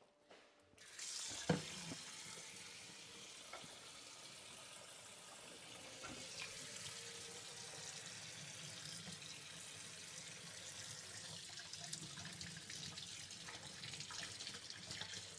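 Water running steadily from a tap into a sink while washing up, starting a little under a second in. A sharp knock comes about a second and a half in, with a few fainter knocks later.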